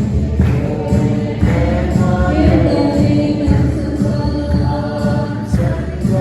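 Music: a choir singing a song over a steady beat.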